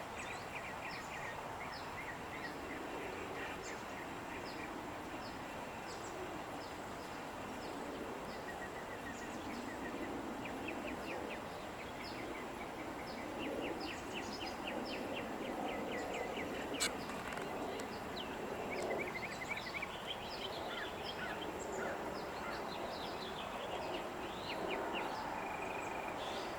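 Small songbirds chirping and trilling over a steady hum of outdoor background noise, with one sharp click about two-thirds of the way through.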